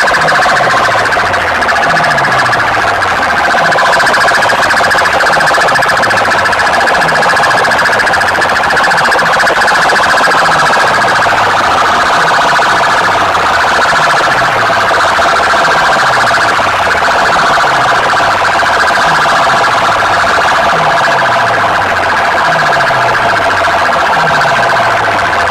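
Very loud DJ sound-system playback of a siren-like electronic effect: a dense, steady wailing tone with a deep bass sweep that falls in pitch, repeating a little under every two seconds.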